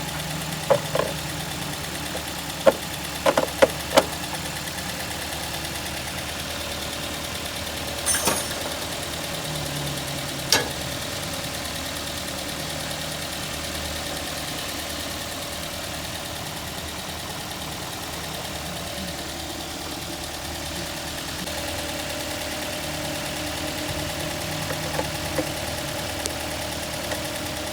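Toyota GLi car engine idling steadily, just after a tappet adjustment. A few sharp metallic clinks come in the first four seconds and twice more around eight and ten seconds in.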